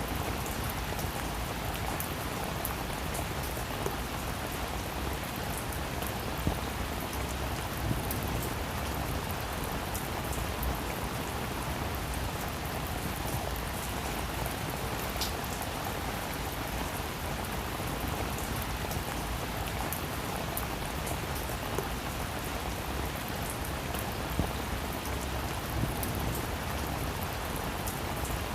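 Heavy rain falling steadily, a dense even hiss with scattered sharper drops ticking through it.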